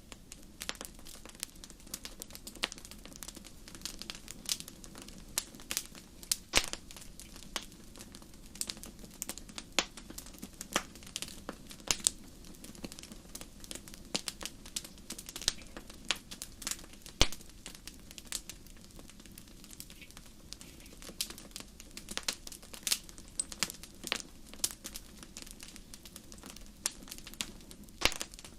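Wood fire crackling in a fireplace: a dense, irregular run of small snaps and a few sharper pops over a steady low background.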